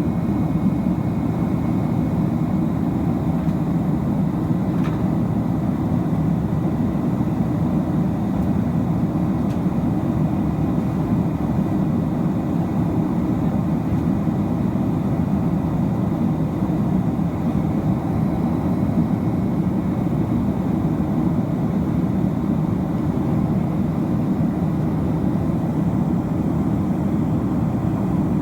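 Steady roar of a Boeing 767-300ER's jet engines and rushing air, heard inside the passenger cabin.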